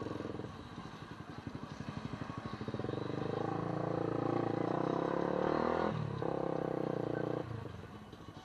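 A small engine pulling under throttle, its pitch rising for a few seconds, with a brief break about six seconds in, then easing off near the end.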